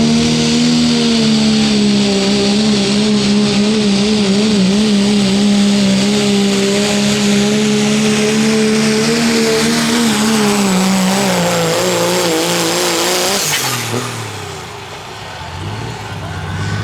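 Turbocharged diesel pickup truck in a 2.6 diesel pulling class running at full throttle down the pull track, its engine note held high and wavering for about ten seconds. The pitch then sags as the engine loads down, and about thirteen seconds in it cuts off as the throttle is let off. A lower engine sound rises near the end.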